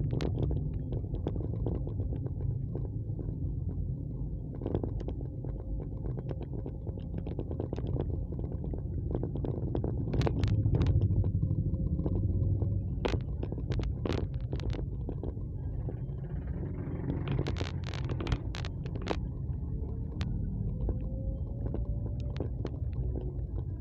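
Low, steady rumble of wind and road noise from a moving vehicle, with a faint engine tone rising and falling and scattered sharp clicks.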